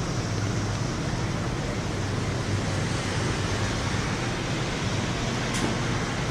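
Steady rush of rain during a thunderstorm, an even hiss with no rise or fall, and a faint brief tick near the end.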